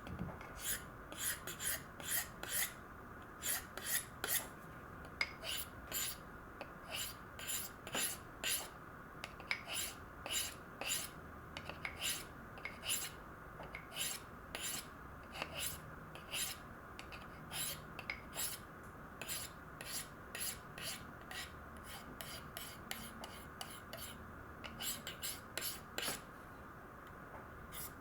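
A ZDP-189 steel knife blade scraping in quick strokes across a diamond-lapped Spyderco ceramic sharpening stone, about two strokes a second, with a short pause a few seconds before the end.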